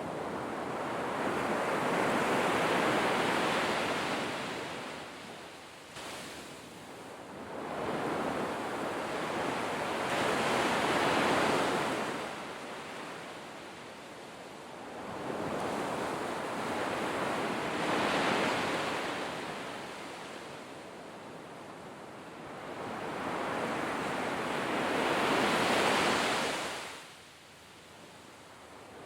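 Sea waves breaking and washing in. Four surges come about seven to eight seconds apart, each swelling and then fading.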